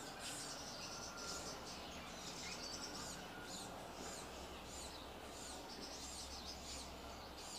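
Small birds chirping outdoors, short high chirps repeating and overlapping throughout, over a faint steady background hiss.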